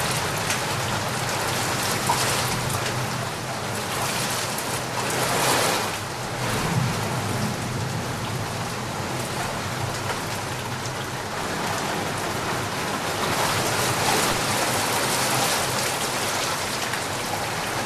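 Steady heavy rain falling and pattering on surfaces, swelling louder about five seconds in and again near the end.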